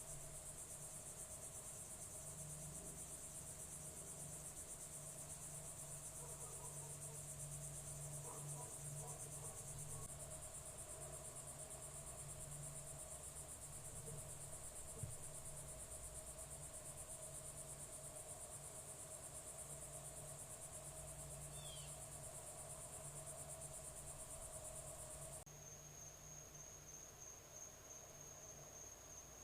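Crickets chirping in a steady, high-pitched chorus. About 25 seconds in, the chorus gives way to a thinner single high trill. A faint low hum runs underneath, and a short falling bird chirp comes near the end.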